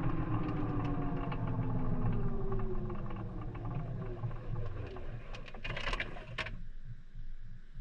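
Maytag front-loading washing machine's drum and motor winding down from a spin, recorded from inside the drum: the whine falls steadily in pitch amid light clicks and rattles. About six seconds in a brief hiss cuts off suddenly, leaving faint ticks as the drum comes to rest.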